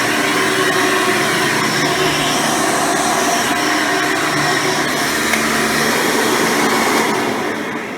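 Hoover Soft & Light Supreme upright vacuum with a 12-amp motor running steadily, then switched off about seven seconds in, its motor winding down with a falling whine.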